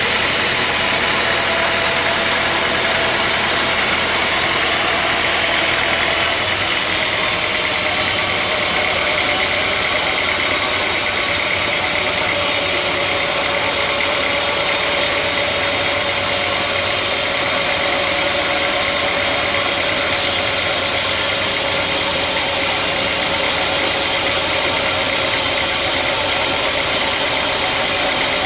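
Engine-driven sawmill machinery running steadily, with a whine that sinks slowly in pitch.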